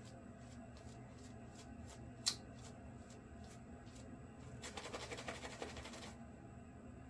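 A safety razor stroke scraping through lathered stubble, a rapid fine crackle lasting about a second and a half, preceded by a single sharp click about two seconds in. A faint regular ticking sits in the background.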